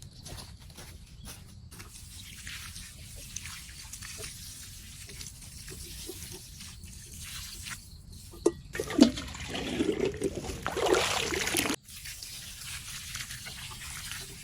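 Water trickling and splashing, with a louder stretch of splashing from about two-thirds of the way in that cuts off suddenly.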